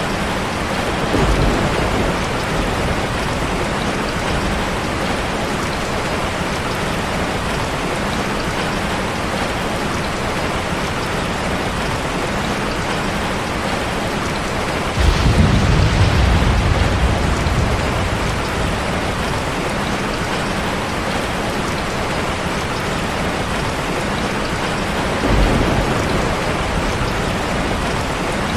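Steady, even rain with three low rumbles of thunder: a short one about a second in, the loudest about halfway through lasting a few seconds, and another short one near the end.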